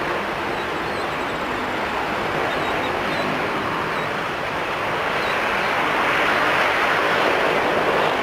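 Jet airliner engine noise: a steady rushing roar that grows a little louder near the end.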